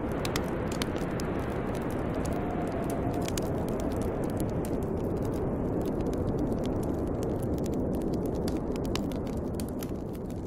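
Snowstorm wind blowing in a steady rush, with a faint whistle that rises and falls, while a wood fire crackles with scattered sharp snaps.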